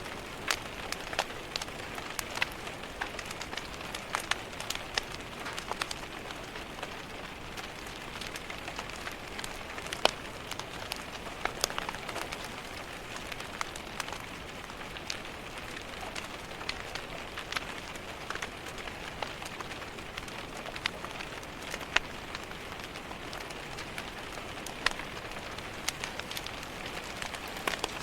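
Steady rain tapping against a window, a soft even hiss, mixed with a crackling wood fire in a fireplace that adds sharp irregular clicks and pops throughout.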